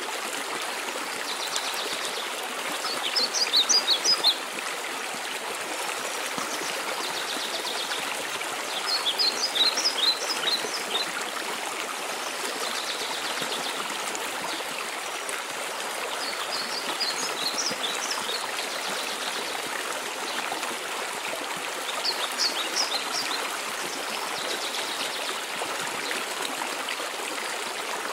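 Steady rush of a mountain waterfall. Over it a songbird sings short, high phrases about every six seconds, loudest about four and ten seconds in, with fainter buzzy notes between them.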